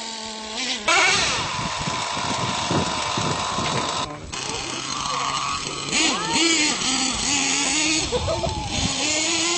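Small engines of radio-controlled monster trucks revving, their pitch rising and falling again and again with several quick upward sweeps.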